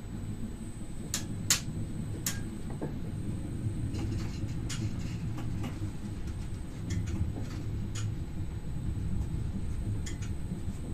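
MI84 electric multiple unit running, heard from inside the driver's cab: a steady low rumble with scattered sharp clicks and knocks at irregular moments.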